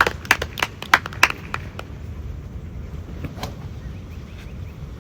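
A few people clapping in scattered handclaps for about the first two seconds, then wind on the microphone.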